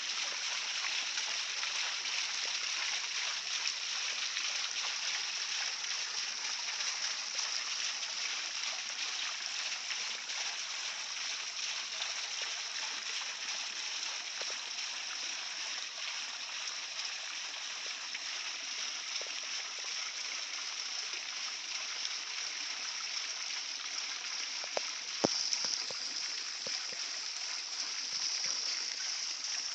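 Water from a small garden waterfall spilling into a swimming pool, a steady splashing rush. A few sharp clicks near the end.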